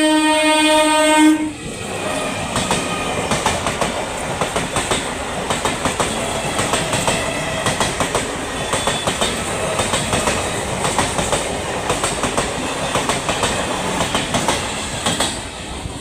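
An electric multiple unit local train's horn sounding a steady blast that cuts off about a second and a half in, then the train's wheels clattering rapidly over the rail joints as it passes at speed, dying away near the end.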